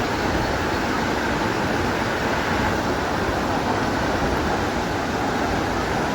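Steady rushing noise of Pokhali waterfall, a 131 m fall, heard close by: an even, unbroken wash of sound.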